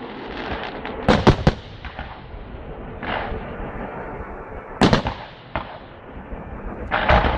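Grand finale of a public firework display: sharp bangs of shells bursting, three in quick succession about a second in, another near five seconds and a cluster near the end, with a continuous rush of noise between them.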